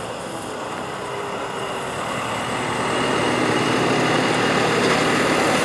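A car engine running at low speed, growing louder over the first few seconds as the car draws closer, then holding steady.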